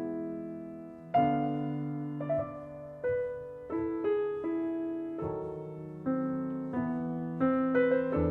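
Background piano music: slow notes and chords, each struck and left to ring out.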